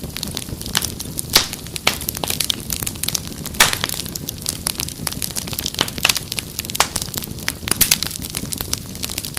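Wood fire crackling: irregular sharp pops and snaps, loudest at about one and a half and three and a half seconds in, over a steady low rumble of flames.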